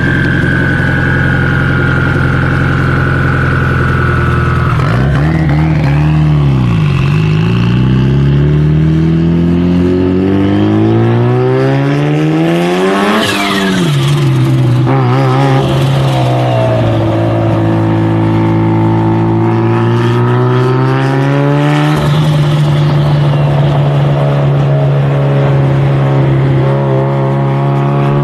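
Mitsubishi Lancer Evolution IX's turbocharged 2.0-litre four-cylinder engine pulling under acceleration, its pitch climbing for several seconds to a peak about halfway through, where a brief falling whistle sounds as the revs drop. It climbs and drops once more, then runs steadily.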